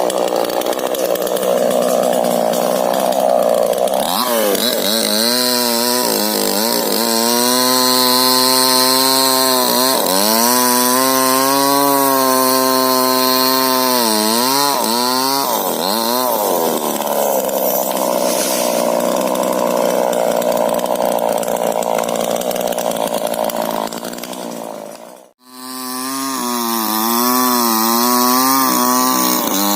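Two-stroke chainsaw running at high revs while cutting through rubber tree wood. Its pitch dips and recovers repeatedly as the chain bites and frees, with rougher stretches near the start and in the later middle while it is deep in the cut. It breaks off abruptly about 25 s in, then runs again.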